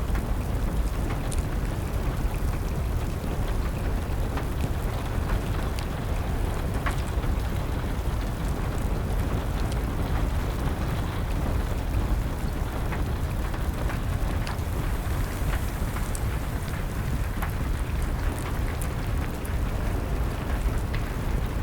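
Steady rain with a deep, even rush, and the scattered sharp pops and crackles of a fire.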